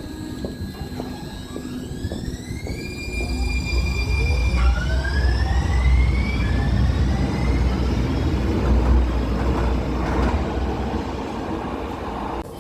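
Light-rail car pulling away: the traction motors whine, rising in pitch in steps as the one-car train accelerates, over a deep rumble of wheels on rails that fades near the end.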